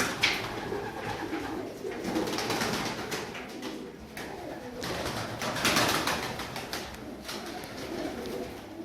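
A room full of domestic pigeons cooing, with louder noisy surges about two seconds in and again around five to six seconds in.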